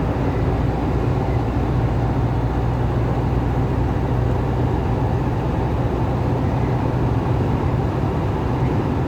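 Steady road and wind noise inside a car cruising at about 80 km/h in a strong gale: a low, even rumble with no break.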